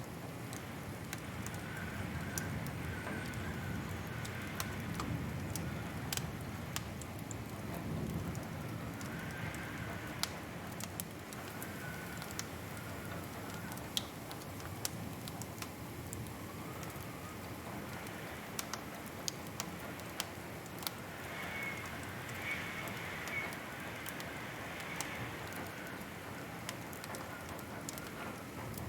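Wood fire crackling in a fireplace: scattered sharp pops and snaps over a steady hiss and low rumble of burning.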